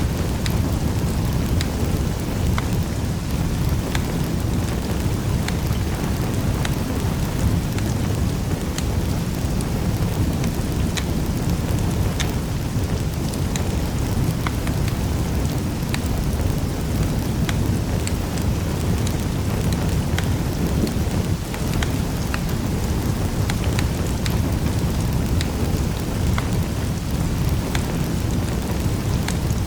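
Wood fire burning in a fireplace: a steady low rumble of flame with frequent small, irregular crackles and pops from the burning wood.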